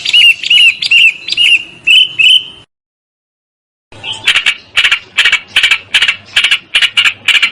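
Recorded songbird calls: a run of clear, down-slurred whistled notes about two a second, then a break of dead silence, then from about four seconds in a fast series of harsh, buzzy chattering notes.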